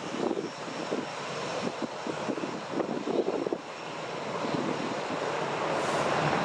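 Boeing 737-800 jet engines running, a steady roar that grows louder through the second half. Irregular wind buffeting on the microphone in the first few seconds.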